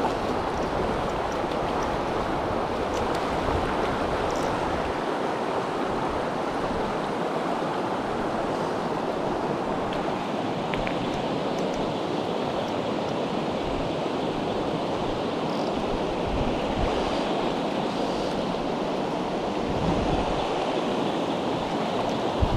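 Mountain stream water rushing steadily over rocks, an even wash of noise.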